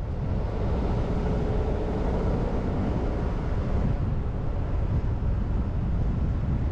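A car driving on a mountain road: a steady low rumble of engine, tyres and wind noise, with a faint hum showing over it for a few seconds near the start.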